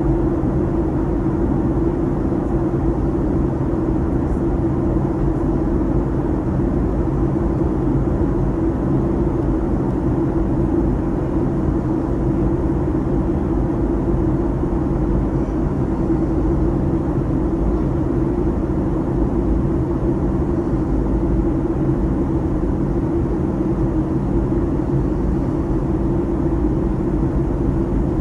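Steady cabin drone inside a Boeing 737-800 in flight: engine and airflow noise with a low hum, holding level throughout with no sudden events.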